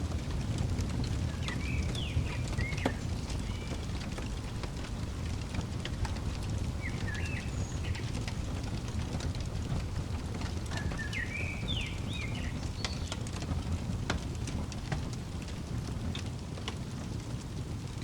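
Fireplace fire burning with a steady low rumble and scattered sharp crackles and pops. Over it, a songbird gives a short twittering phrase three times: about two, seven and twelve seconds in.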